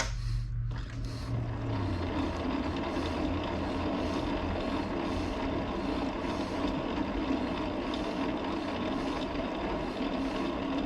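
Metal lathe running steadily, its spindle turning with a faint swish repeating about once a second.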